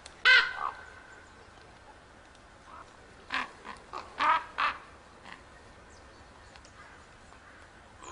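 Common ravens calling: one loud, harsh call just after the start, then a quick run of four or five shorter croaking calls a few seconds later.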